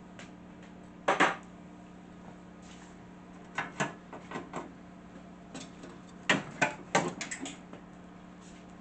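Metal tools and parts clinking and clattering as a vintage table saw is taken apart by hand: a loud clatter about a second in, a few knocks around four seconds, and a busier run of clinks from about six to seven and a half seconds, over a steady low hum.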